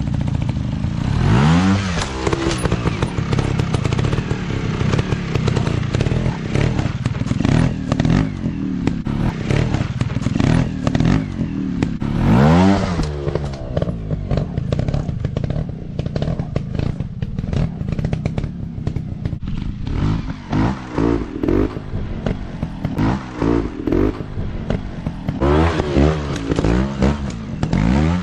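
Dirt bike engines running hard and revving, the pitch climbing and dropping with the throttle. There are big rises about two seconds in and again near the middle, and many quick throttle blips in the last third.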